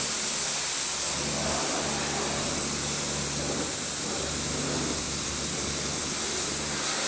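High-pressure washer jet spraying water on a car in a steady hiss, with a steady low hum underneath.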